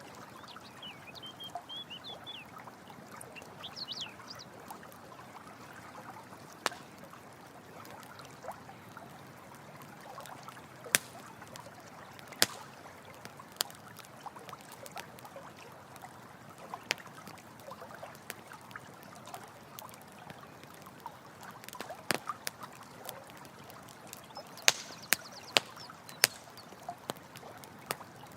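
Running water with a campfire crackling over it: a steady wash of flowing water and scattered sharp pops from the burning wood, a cluster of louder pops near the end. A few high chirps in the first couple of seconds.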